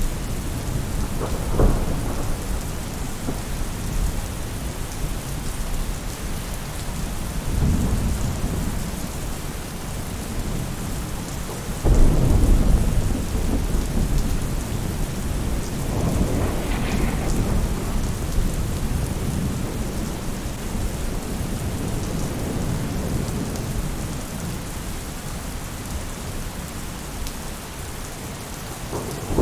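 Steady heavy rain falling on a roof, with thunder rumbling several times; the loudest roll breaks in suddenly about twelve seconds in.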